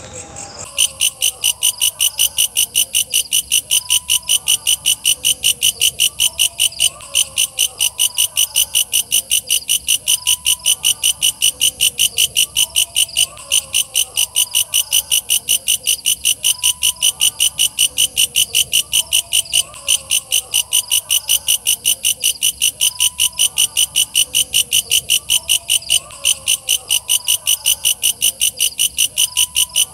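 Walang kecek, a katydid, calling in a fast, even train of sharp high-pitched pulses, about three to four a second, that starts about a second in. Fainter, lower warbling calls repeat underneath.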